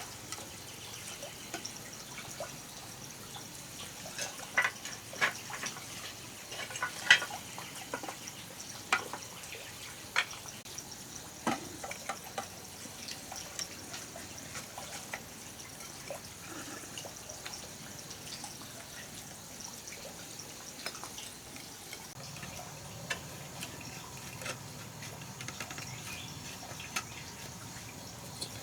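Water dripping and splashing lightly, with scattered small clicks and knocks; the sharpest knock comes about seven seconds in and the knocks thin out in the second half.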